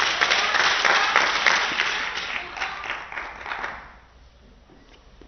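Spectators applauding and clapping, dying away about four seconds in.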